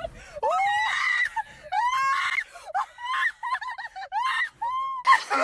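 A person screaming: a string of short, high-pitched shrieks, one after another.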